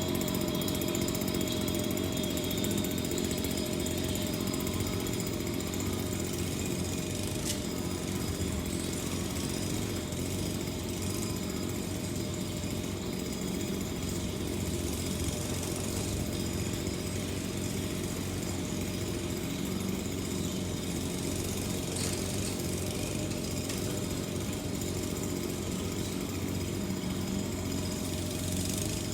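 A small engine running steadily, a constant drone with a held hum.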